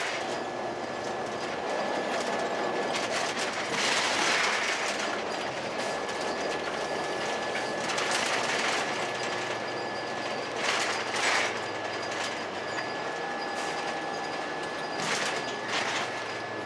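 Cummins ISC diesel and road noise of a 2002 Blue Bird CS transit bus running, with steady rattling and clacking and several louder surges of noise along the way.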